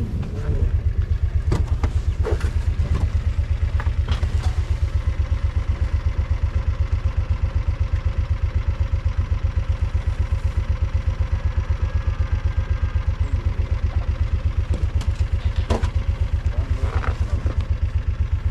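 Vehicle engine running steadily with an even, rapid low throb, with a few short knocks and rattles on top.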